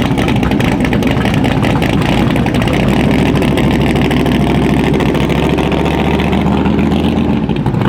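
A car's engine running loud and steady, its exhaust pulsing evenly, as the car sits ready to show off.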